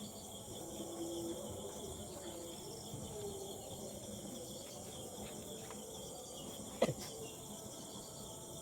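Faint crickets chirring steadily, with one short, sharp sound a little before the seven-second mark that is the loudest thing heard.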